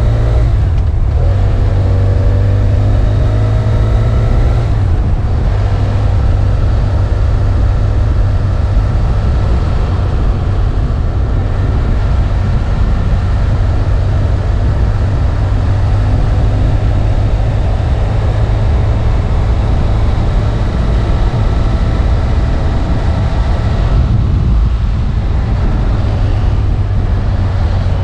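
BMW F800 ST's parallel-twin engine running under way, with strong wind rumble on the microphone. The engine note climbs, breaks briefly about one and five seconds in as gears change, then holds steady.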